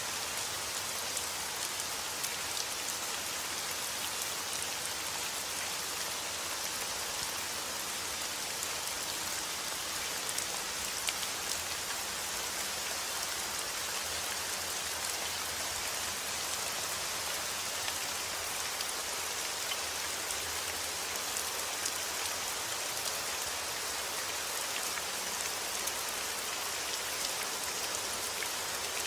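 Heavy rain falling steadily, a dense even hiss dotted with the sharp patter of individual drops striking a surface.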